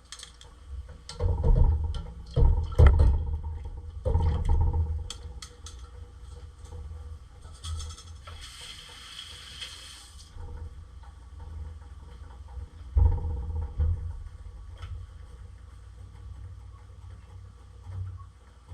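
Raw chicken wings being put into a pot of chicken broth: several heavy knocks and bumps of handling, with splashing. About eight seconds in, water rushes for about two seconds.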